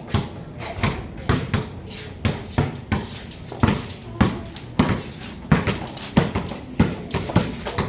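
Basketballs bouncing on the court during dribbling, sharp thuds a few times a second at an uneven rhythm.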